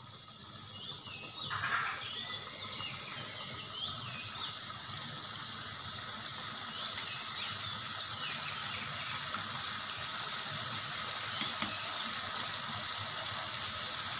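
Eggs and sauce sizzling in a wok, a steady sizzle that swells over the first two seconds as the liquid comes to the bubble, with a single clatter of the metal ladle about two seconds in. Birds chirp now and then in the background.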